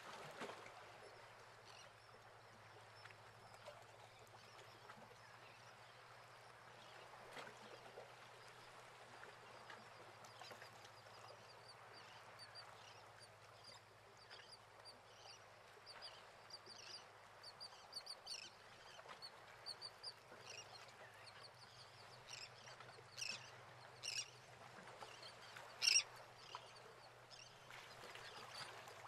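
Faint bird calls: many short, high chirps that grow more frequent in the second half, with a few louder calls near the end, over a faint steady low hum.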